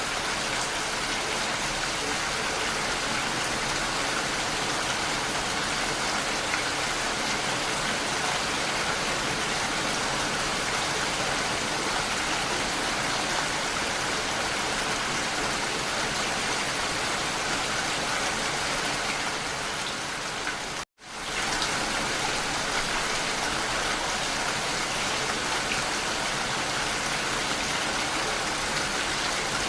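Steady heavy rain falling, an even hiss of drops. About two-thirds of the way through, the sound cuts out for an instant and fades back in.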